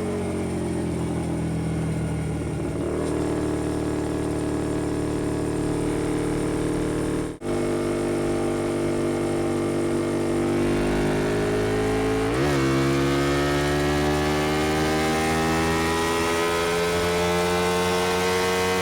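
Honda XL125V Varadero's 125 cc V-twin engine running through a BlackWidow aftermarket exhaust while riding. The note first eases off, then rises as the bike accelerates. About twelve seconds in there is a quick gear change, and after it the pitch climbs steadily again.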